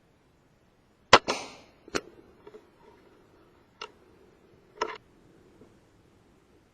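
A single sharp shot from a Theoben Rapid 7 pre-charged air rifle about a second in, followed by a few lighter clicks and knocks.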